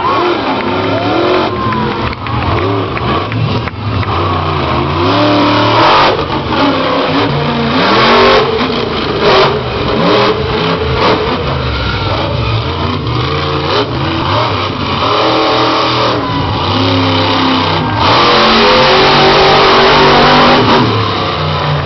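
Monster truck engine revving hard again and again, its pitch climbing and falling as the throttle is worked, with longer full-throttle stretches about a third of the way in and near the end.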